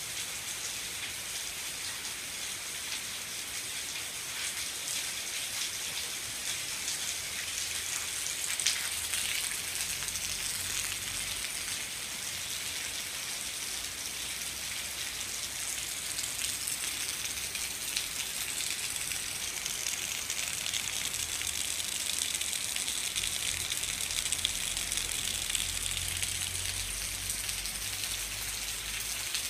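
Steady rain falling on a paved path and grass, an even hiss with the patter of individual drops. A faint low rumble comes and goes underneath.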